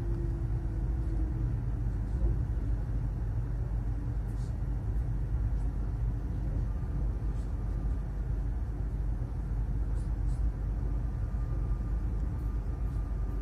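Steady low rumble inside the passenger car of a Stadler EShch2 double-decker electric train on the move, with a faint high whine coming in about halfway through.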